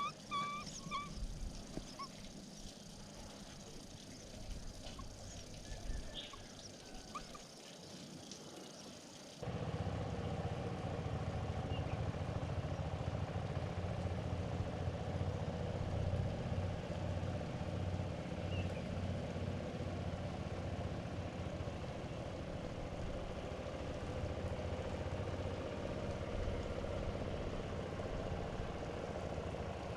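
Whistled bird calls trail off, leaving a few faint chirps. About nine seconds in, the sound switches abruptly to a louder, steady low hum like a running engine, which carries on to the end.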